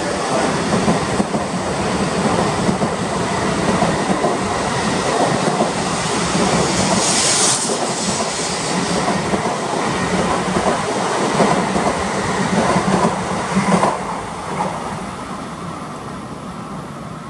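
N700S Shinkansen train pulling out of the station and running past, with rolling noise and a rapid clatter of wheels over the rails. About fourteen seconds in the noise starts to fade away as the train moves off.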